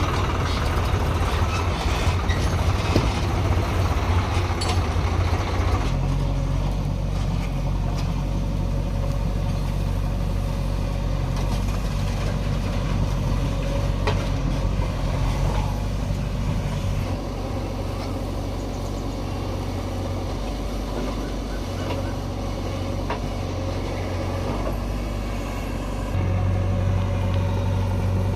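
Heavy diesel machinery engine running steadily, its note and load shifting a few times: at about six seconds in, again past the middle, and rising near the end.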